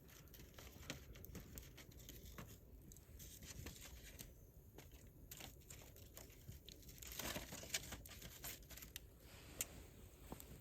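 Wood campfire crackling faintly, with scattered sharp pops and a brief louder hiss about seven seconds in.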